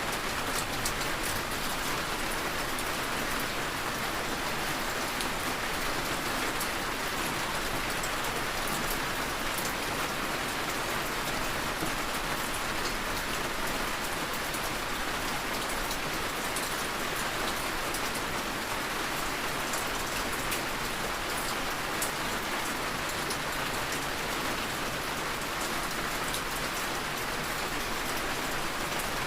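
Heavy rain falling steadily, a continuous even hiss with scattered drop ticks and no thunder.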